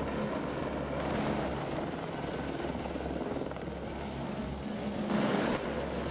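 Helicopter running steadily overhead, its rotor and engine making a continuous drone that swells briefly about five seconds in.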